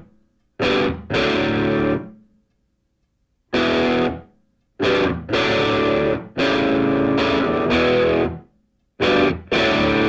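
Music: distorted electric guitar chords played as stop-start stabs, each held briefly and then cut off into silence.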